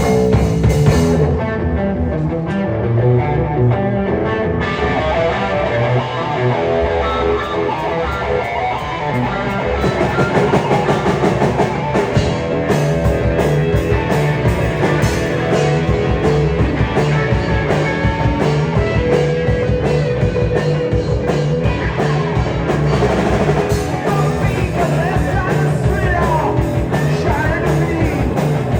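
Live rock band playing loud, with electric guitar and drum kit. The music starts abruptly, the drums with cymbals come in about four seconds in, and the band drives harder from about ten seconds in.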